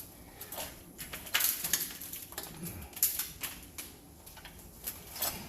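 Irregular clinks and knocks of metal tools and parts being handled during a water heater installation, the busiest clatter about one and a half and three seconds in.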